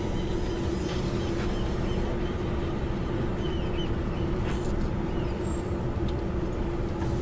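Semi-truck engine running slowly, heard from inside the cab as a steady low hum and rumble, with a few faint short high chirps over it.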